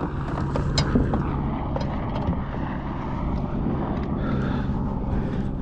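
Old Town motor kayak's electric motor running steadily with a low hum, over water noise; it is running normally after the kayak was capsized and submerged.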